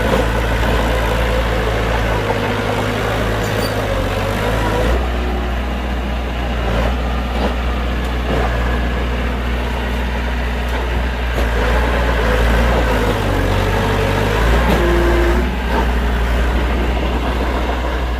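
Heavy diesel construction machinery running steadily with a loud, continuous low drone, shifting slightly in pitch a few times.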